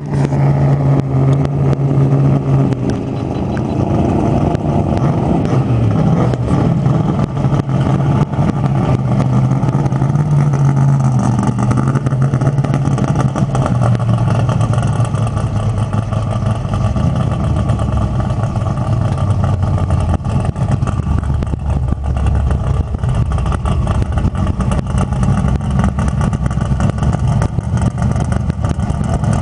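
Hyundai Coupe drag car's twin-turbo 357-cubic-inch small-block V8 idling loud and steady, the pitch wavering a little.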